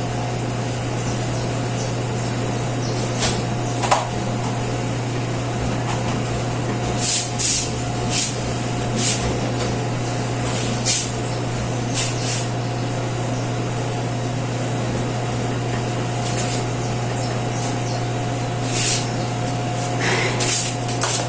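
Cleaning spray bottle giving short hissing squirts, about a dozen scattered through, over a steady low hum.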